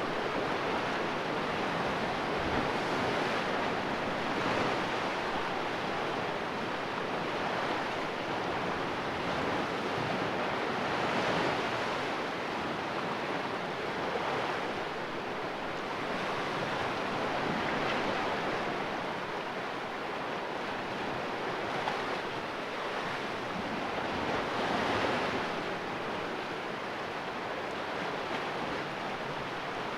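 Sea waves splashing against the rocks of a small cove: a steady wash that swells and eases every few seconds.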